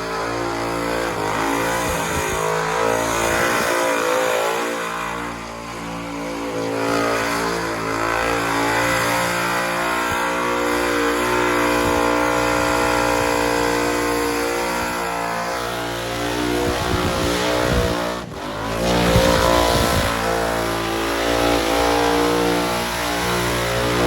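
Supercharged, methanol-injected burnout car engine held at high revs through a long burnout, with tyre noise under it. The revs dip briefly about five seconds in and again around eighteen seconds before climbing back.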